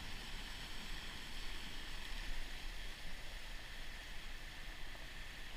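Whitewater River in flash flood: muddy floodwater rushing steadily, an even hiss over a low rumble.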